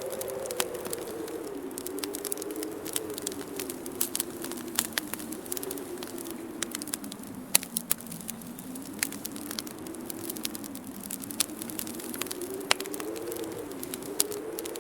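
Wood fire crackling in a fireplace, with frequent small pops and a few sharper ones, over a whistling winter wind whose pitch slowly falls and then rises again.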